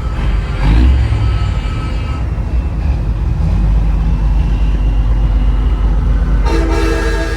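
Big rig diesel engine running with road rumble, then about six and a half seconds in a Nathan Airchime P3 air horn starts sounding its steady multi-note chord.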